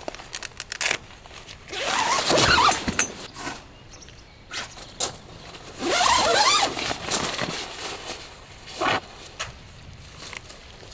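Two loud bursts of rustling, scraping noise, about two and six seconds in, with scattered clicks and knocks around them.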